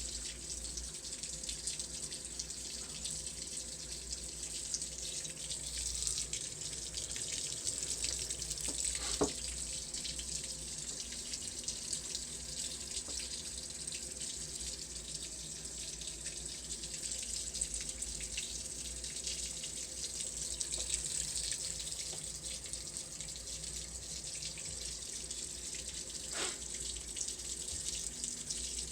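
Water running in a steady stream, with two brief sharper sounds over it, one about nine seconds in and one near the end.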